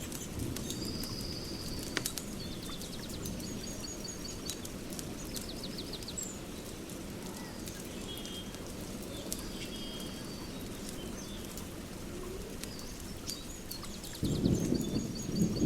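Nature soundscape: birds chirping and trilling over a steady low rain-like hiss, with scattered sharp crackles. A loud rumble of thunder starts about 14 seconds in.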